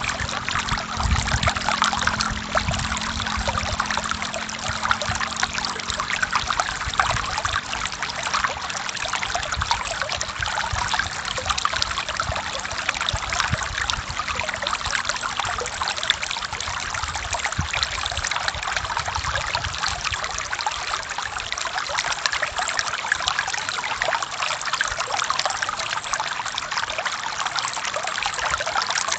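Forest river flowing steadily, a continuous even rush of moving water, with a low rumble underneath for the first few seconds.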